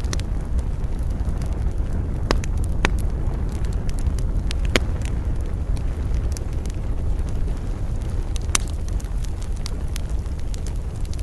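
Wood campfire burning, crackling with scattered sharp pops over a steady low rumble.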